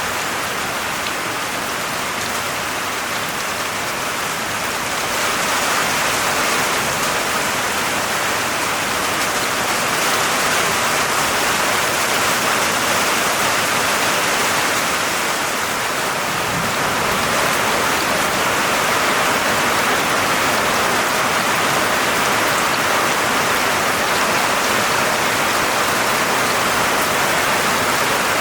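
Steady heavy rain falling, a dense even hiss of drops, getting slightly louder about five seconds in and again a little after halfway.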